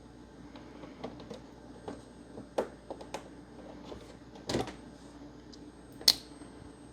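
Scattered light clicks and knocks of a partly disassembled Xbox One S console being handled and turned over, the sharpest about six seconds in.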